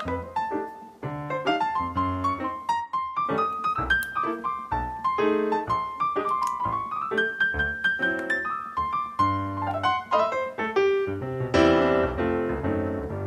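Background piano music: a quick melody of short notes that goes on without a break.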